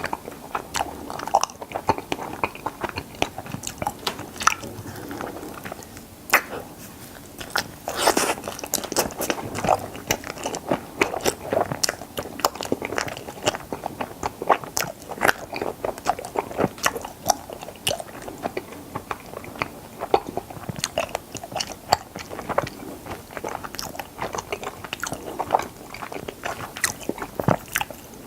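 A person biting and chewing strawberry mochi ice cream, with a steady stream of short, sharp wet mouth clicks and smacks.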